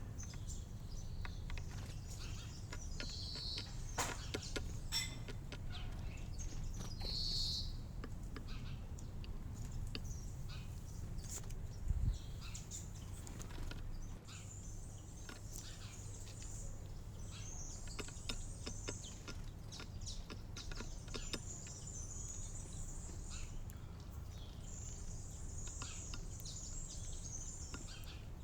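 Small wild birds chirping and calling in short high notes scattered throughout, over a steady low background rumble. There are a few sharp clicks about four to five seconds in and a single low thump about twelve seconds in.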